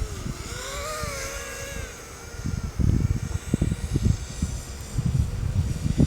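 Electric motors and propellers of a ZMR250 FPV racing quadcopter whining in flight, the pitch dipping and rising over the first two seconds before fading. From about halfway on, gusts of wind buffet the microphone and drown it out.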